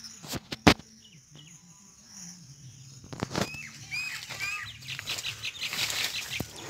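Two sharp clicks in the first second, the second one loud, then a bird chirping from about three seconds in: a run of short calls, each sliding downward, repeated several times.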